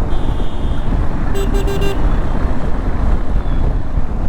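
Heavy wind and road rumble while riding a motorcycle. A vehicle horn sounds three quick toots about a second and a half in.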